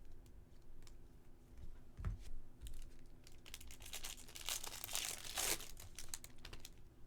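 Foil wrapper of a baseball card pack crinkling and tearing as it is opened, with scattered light clicks. The crinkling is loudest about four to five and a half seconds in.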